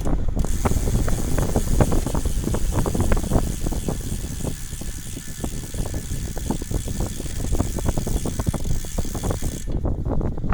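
A vehicle rattling and knocking over a rough surface, with dense irregular clicks over a steady low rumble and hiss.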